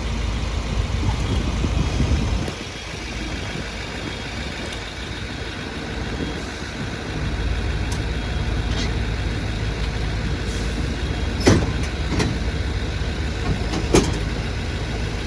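Fire trucks' diesel engines idling, a steady low rumble that drops off about two and a half seconds in and comes back around seven seconds. Three short sharp knocks near the end.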